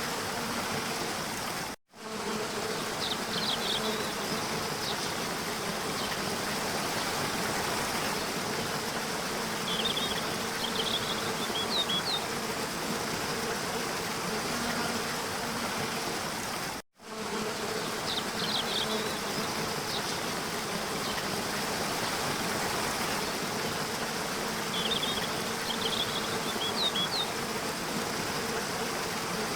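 Waterfall water rushing steadily, with short clusters of high bird chirps a few times. The sound cuts out for an instant twice, about fifteen seconds apart.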